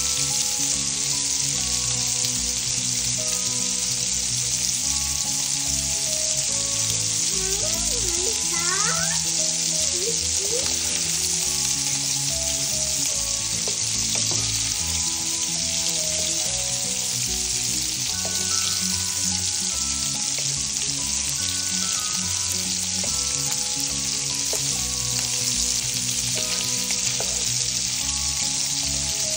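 Sliced sausage sizzling steadily in hot oil in a nonstick frying pan, with a wooden spatula stirring the pieces now and then.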